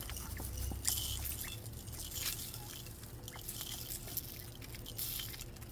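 Quail pecking at freshly scattered seed: irregular small ticks and crunches.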